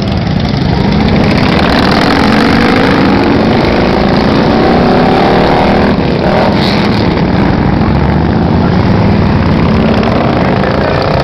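Motorcycle engines running under load, their pitch rising as they accelerate, with a brief drop about six seconds in before rising again.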